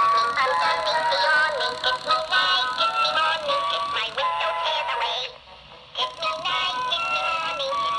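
Gemmy animated Tweety Bird toy singing a song in a cartoon voice through its small built-in speaker, thin-sounding with no bass. The song breaks off for a moment a little past five seconds in, then carries on.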